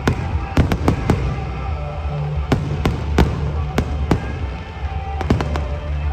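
Fireworks bursting in an irregular run of sharp bangs, about fifteen of them, with music playing underneath.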